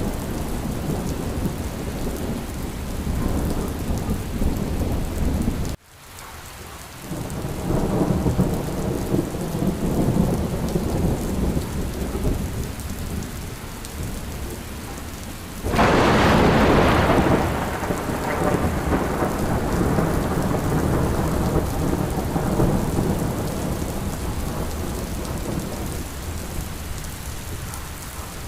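Steady rain with low rolling thunder. The sound cuts out abruptly about six seconds in and swells back, and about halfway through a sudden loud thunderclap breaks and rumbles away over several seconds.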